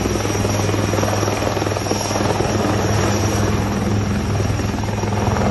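HAL Rudra armed helicopter in flight, its rotor and turbine engines running steadily with a low, even rotor thrum under broad engine noise and a faint high whine.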